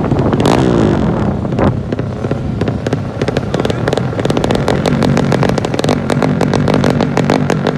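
200cc motocross bike engines revving, their pitch rising and falling, with a rapid crackling from about three seconds in.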